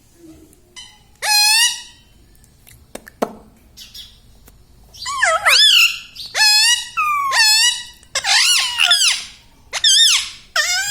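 Pet rose-ringed (Indian ringneck) parakeet calling loudly, with one call about a second in and then a fast series of calls from about five seconds on, each bending up and down in pitch.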